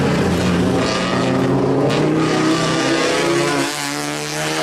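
Race car engine running hard at high revs on track, its pitch holding fairly steady; the sound drops briefly in loudness near the end.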